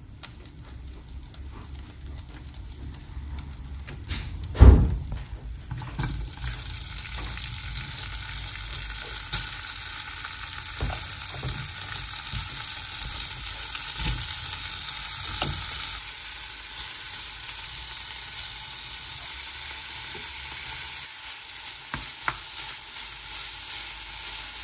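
Chicken and vegetables frying in butter in a pan, sizzling steadily while being stirred, with a utensil knocking against the pan now and then; the loudest knock comes about four and a half seconds in.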